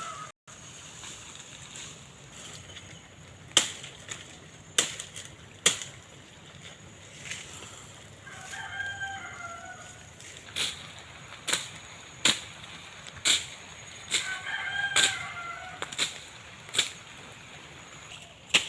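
Sharp chopping strokes, roughly one a second, as a blade cuts through undergrowth. A rooster crows twice, each crow lasting about a second and a half.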